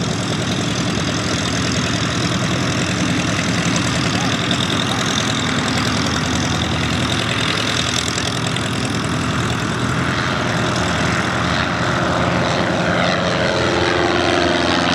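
Single-engine light propeller aircraft running at take-off power for its departure. Near the end the engine note sweeps and shifts as the aircraft comes past.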